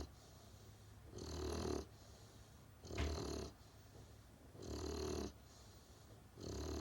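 Great Pyrenees puppy snoring in a slow, even rhythm: four snores about half a second each, one roughly every second and three-quarters.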